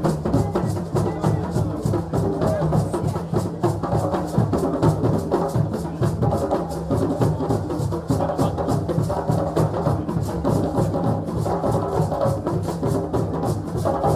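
West African celebration drumming: several hand drums and a deep bass drum playing a fast, dense, unbroken rhythm, with bright wooden or clave-like clicks on top.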